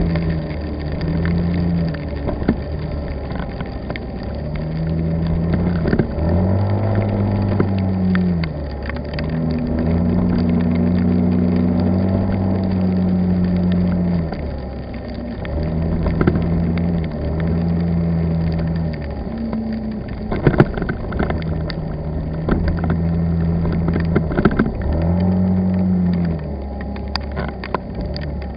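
A car's engine hum heard from inside a moving vehicle. It holds steady for a few seconds at a time and shifts pitch as the engine speeds up and slows down, over constant road noise.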